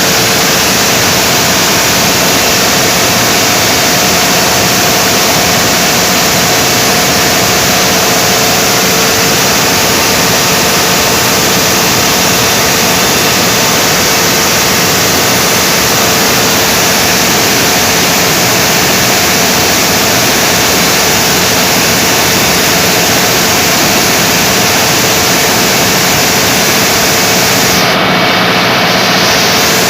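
Generator running steadily under a load test: loud, constant noise with a steady hum held throughout. The hiss briefly dulls near the end.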